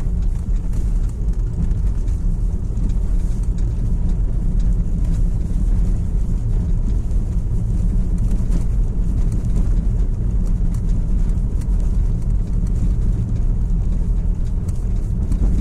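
Steady low rumble of a moving road vehicle, unbroken throughout.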